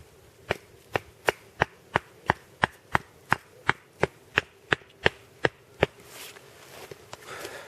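Wooden stake being hammered into the ground: about sixteen sharp, evenly spaced wooden knocks, about three a second, stopping just before six seconds in, followed by rustling.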